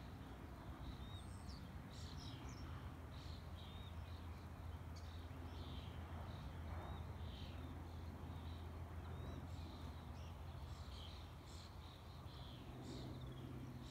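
Small birds chirping in short, scattered calls over a low steady rumble.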